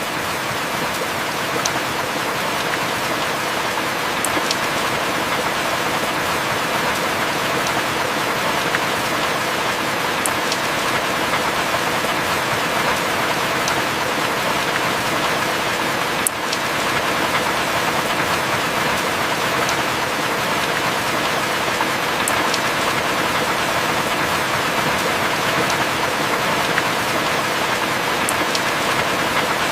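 Heavy rain falling steadily, an even hiss with a few single drops ticking sharply now and then. The level dips for a moment about halfway through.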